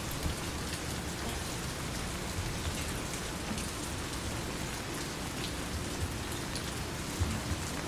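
Steady rain falling, with scattered drops ticking on hard surfaces.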